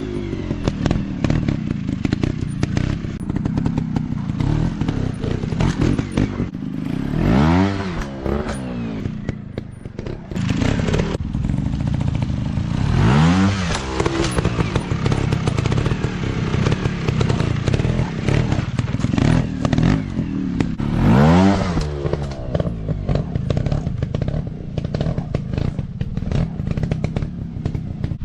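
Off-road dirt bike engine running, revved up and back down three times, around 7 s, 13 s and 21 s in. Clattering and knocks run through it.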